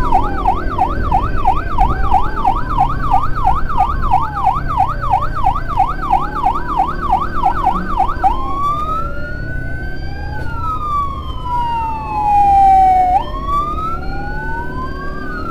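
Electronic sirens of an ambulance and its escort, two sounding at once. One gives a rapid yelp of about four sweeps a second, over a slower wail, and about eight seconds in it switches to slow rising-and-falling wails that cross the other siren's.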